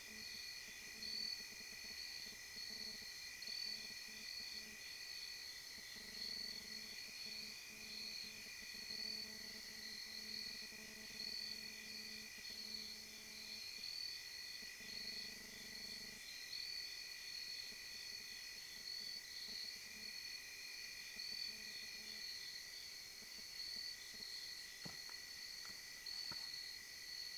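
Steady chorus of crickets and other night insects, a continuous high pulsing trill at two pitches.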